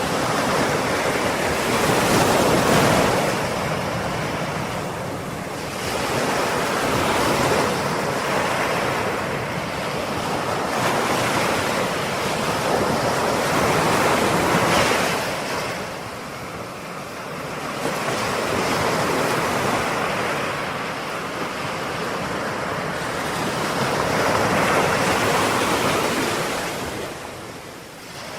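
Ocean surf: waves breaking and washing ashore in a continuous roar that swells and ebbs every few seconds.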